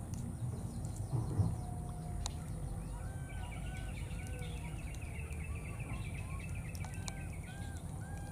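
Birds calling: a short whistled note repeated about twice a second and a fast chattering trill, from about three seconds in, over a steady low background noise, with a soft thump early on.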